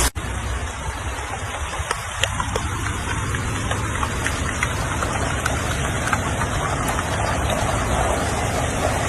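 Heavy rain pouring and splashing, with scattered drops ticking sharply and a steady low rumble underneath.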